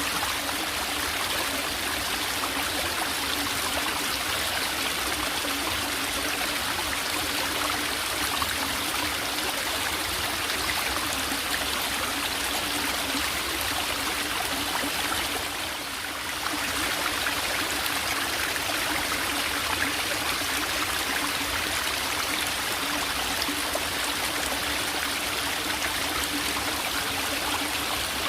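Small mountain brook in a forest, trickling and flowing steadily, with a brief dip in level about halfway through.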